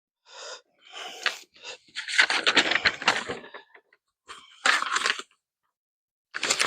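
Metal parts and tools being handled, with bursts of clinking and rattling clatter coming in several short spells and brief pauses between them.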